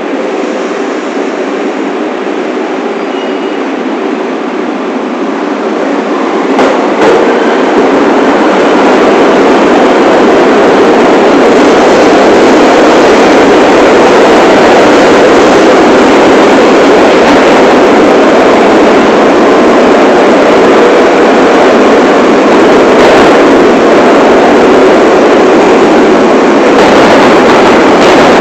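New York City subway train running on the rails, heard from inside the front car: a steady rumble of wheels and motors that grows louder about a quarter of the way in, then holds steady.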